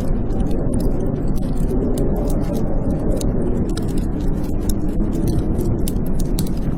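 Blizzard wind blowing steadily with a deep rumble and a faint wavering howl, layered with frequent sharp crackles and pops from a wood fire burning in a fireplace.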